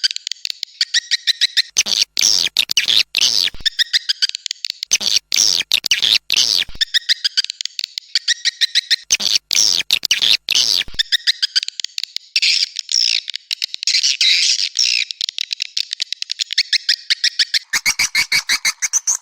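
Swiftlet lure call: a mixed recording of swiftlet calls, rapid high-pitched chirps and clicks coming in repeated short bursts, with a longer, denser run of twittering in the middle. It is the kind of call played to draw swiftlets into a nesting house.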